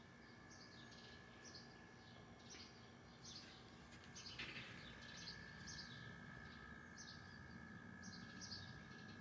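Small birds chirping faintly: short, high, falling notes repeated about once a second.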